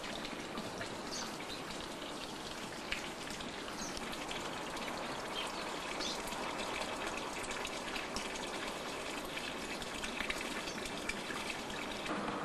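Steady hiss of noise with faint, scattered short high chirps from canaries.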